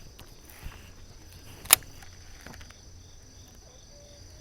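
Insects chirring steadily in a high, thin tone, with one sharp click about a second and a half in.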